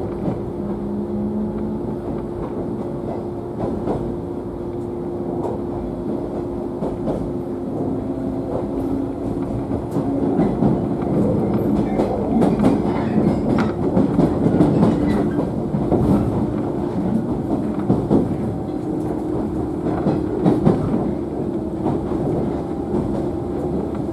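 JNR 113-series electric train running, heard inside the motor car: a steady motor and gear hum under the rumble of the wheels, with rail-joint clickety-clack. The rumble and clatter get louder about ten seconds in.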